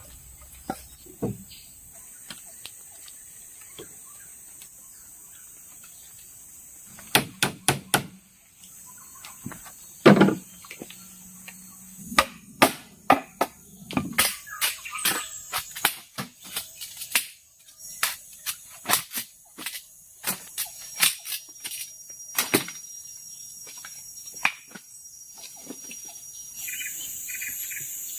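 Irregular sharp knocks and chops of hand-tool work on bamboo, coming in quick clusters and most frequent in the second half. Under them runs a steady high-pitched drone of crickets or other insects.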